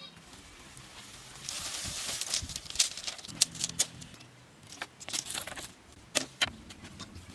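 Irregular sharp taps and knocks of hand work, as on bamboo, with a stretch of scraping about one and a half seconds in.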